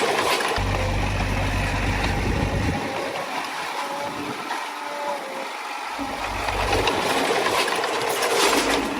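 Diesel engine of a small Komatsu D20A crawler bulldozer running steadily as it works, with a low rumble that comes and goes.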